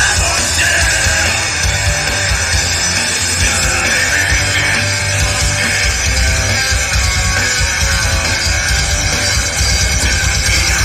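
Live rock band playing loud, distorted punk-style rock with electric guitars and drums, continuous and without a break.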